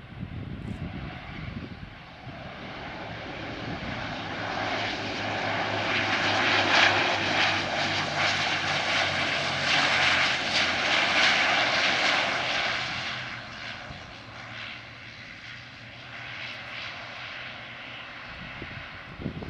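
Airliner passing by: its engine noise swells over several seconds, is loudest around the middle, then fades away, with a low steady hum underneath.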